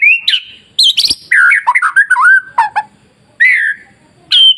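White-rumped shama (murai batu) singing: quick phrases of loud, looping whistled notes that sweep up and down, broken by short pauses.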